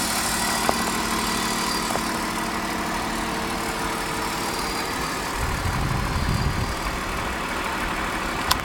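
BMW M52TU 2.8-litre inline-six idling after a cold start, with an engine knock noise that the owner believes comes from around the intake manifold. A brief low rumble swells about five and a half seconds in, and a few faint clicks sound.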